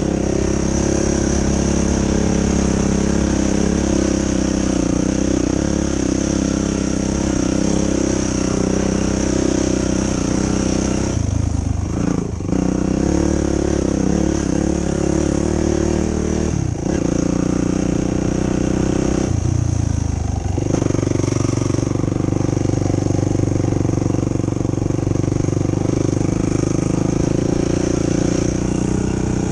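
2005 Yamaha YFZ450's single-cylinder four-stroke engine running under varying throttle while trail riding, its pitch rising and falling, with the throttle briefly chopped three times, about a third, halfway and two thirds of the way through.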